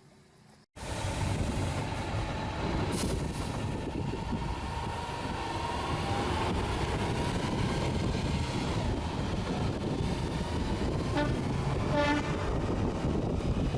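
Heavy truck's diesel engine running under load with loud road and wind noise, starting abruptly just under a second in. Near the end come two short horn toots.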